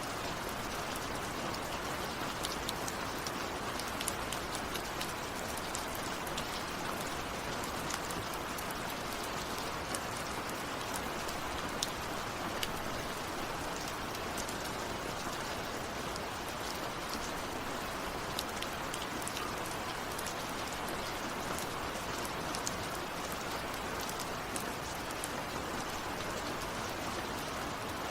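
Steady rainfall, an even hiss with individual drops ticking sharply here and there. No thunder is heard.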